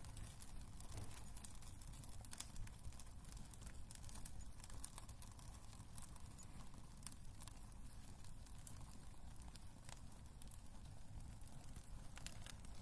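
Wood burning in a fireplace, crackling with scattered small pops over a soft low rumble.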